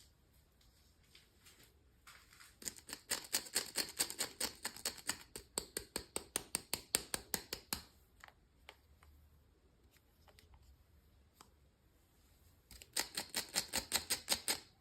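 Rapid, even clicking at about six clicks a second, in a long run of about five seconds and a shorter run near the end, with a few faint taps in between.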